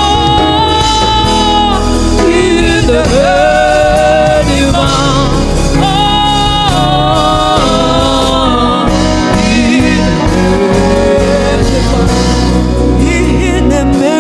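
Live gospel worship band playing a slow song, with long held, slightly wavering melody notes over steady bass.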